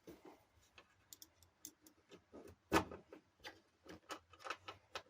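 Irregular small clicks and taps of screws and tools against a scooter's plastic body panels while the panels are screwed together, with one louder knock near the middle.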